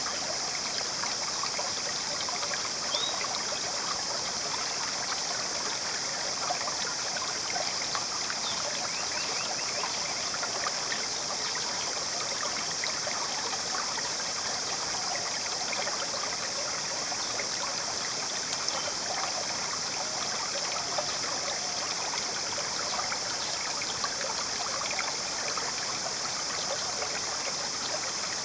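Shallow jungle river flowing and trickling steadily, with a constant high-pitched hiss over the water sound.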